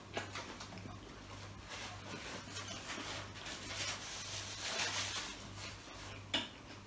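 A mouthful of burger being chewed with the mouth closed: soft wet chewing clicks and smacks. In the middle a paper napkin rustles as it is rubbed over the mouth.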